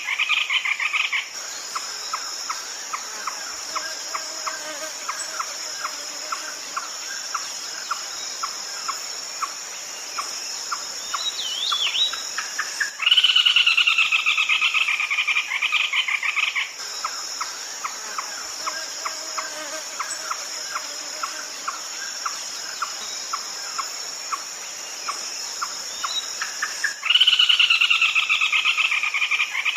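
Red-legged crake calling: a loud, harsh, falling rattle lasting about three seconds that comes back roughly every fourteen seconds. Between the rattles there is an even series of sharp ticking notes, over a constant high insect drone.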